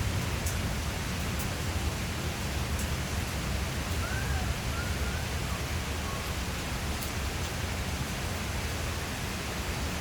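Steady rain falling, an even hiss with no thunder in it. A couple of faint short chirps come through about four seconds in.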